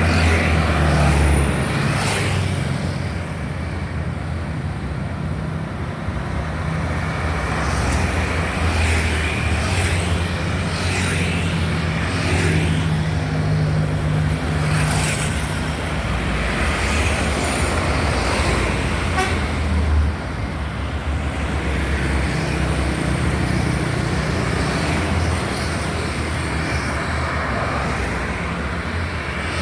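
Road traffic passing, with cars and trucks running and a vehicle horn tooting. A steady low engine hum runs under the noise of the passing vehicles.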